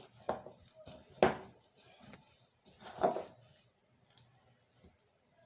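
Spatula scraping and knocking against a mixing bowl while stirring a stiff flour-and-milk dough: a few separate scrapes and knocks, the loudest about a second in and another about three seconds in.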